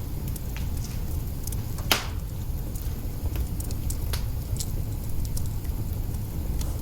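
Log fire burning in an open hearth: a steady low rumble with scattered crackles, one loud pop about two seconds in and a few smaller snaps after.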